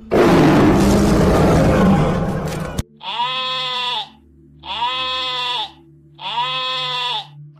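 A lion roaring, loud and rough, cut off suddenly about three seconds in. Then a sheep bleats three times, each call about a second long.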